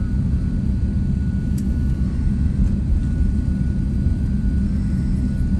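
Jet airliner engines running with a steady low rumble, with a faint steady high tone above it.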